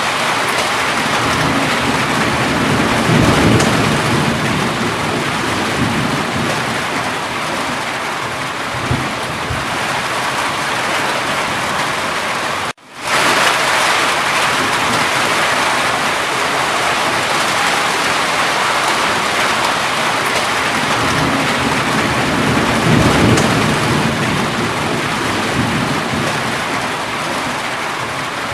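Steady heavy rain, with low rolls of distant thunder twice, a few seconds in and about three-quarters of the way through. The sound cuts out for a split second about halfway through, then resumes.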